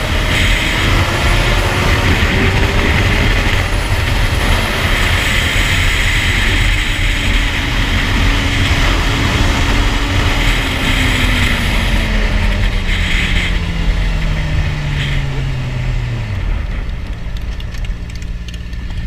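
Sport bike's inline-four engine with an aftermarket exhaust running under way, with heavy wind rush on the microphone. About ten seconds in, the engine note falls steadily as the bike slows, settling low near the end while the wind noise dies away.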